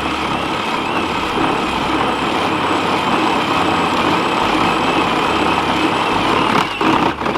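Two kids' electric ride-on toy tractors running flat out against each other in a tug of war, a steady motor-and-gearbox whine with a wavering high tone, dipping briefly near the end.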